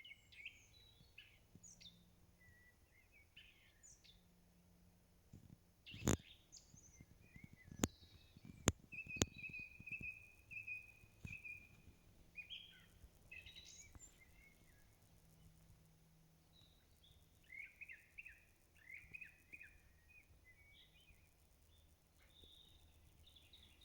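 Faint songbirds singing and calling: short chirps and trills, with one clear whistled note held for about two seconds partway through. Four sharp clicks a little before the middle are the loudest sounds.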